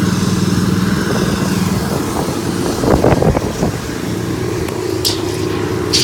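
An engine running steadily, with a short cluster of louder knocks about halfway through and two sharp clicks near the end.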